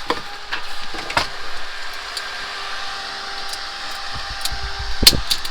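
A steady fan-like hum runs throughout, while a wire stripper works on electrical cable with a few sharp clicks and knocks. The loudest click comes near the end.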